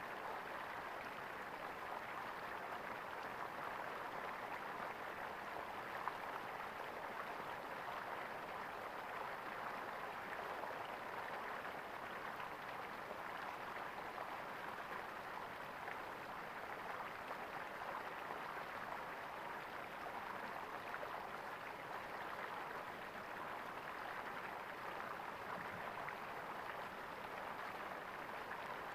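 Flowing water gurgling steadily, with one brief tick about six seconds in.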